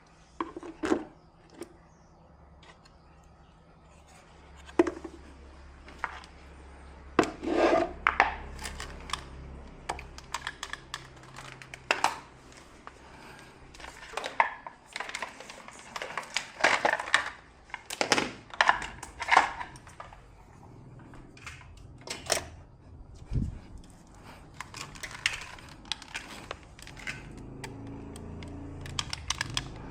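Irregular clicks, knocks and clinks of small tools and parts being handled on a workbench during a TV power-supply repair, with a low hum under the first half.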